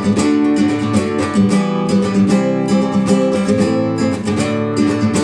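Acoustic guitar strummed in steady chords: an instrumental passage of a song between a chorus and a verse, with no singing.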